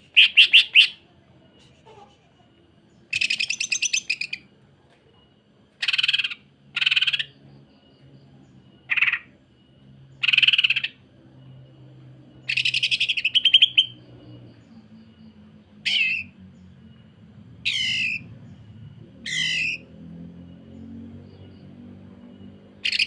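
Cucak ijo (green leafbird) singing harsh, fast rattling 'sewing-machine' phrases, each a burst of rapidly repeated notes, about ten of them with short pauses between. Toward the end the phrases turn into shorter, sweeping calls.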